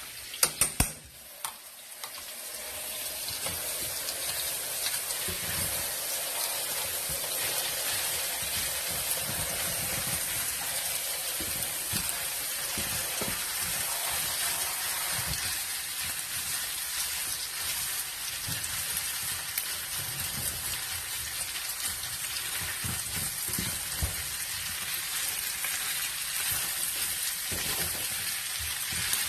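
Food sizzling steadily in a hot pan, after a few sharp clicks about half a second in.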